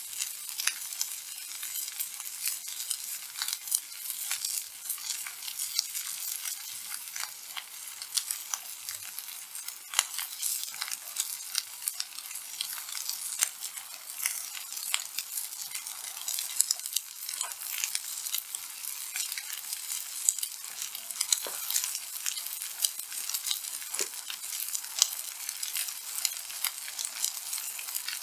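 Beef steak sizzling on a thick black-iron griddle plate over a wood fire: a steady high hiss dense with small spitting pops as the fat fries.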